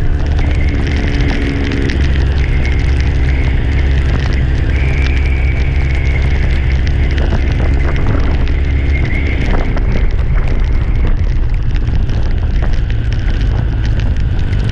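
Heavy wind rumble on the microphone while riding, with a steady engine hum underneath.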